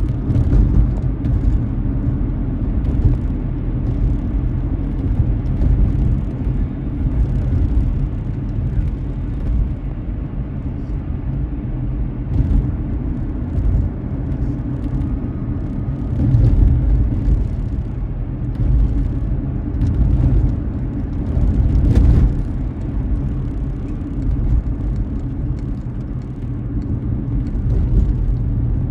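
Car driving on a wet road: a steady low rumble of road and engine noise, with frequent short irregular ticks over it and a sharper tick about 22 seconds in.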